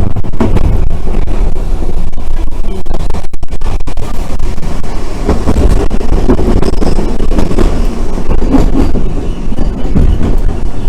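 Randen electric tram running along its track, heard from inside the car: a loud, steady rumble of wheels and running gear with scattered knocks.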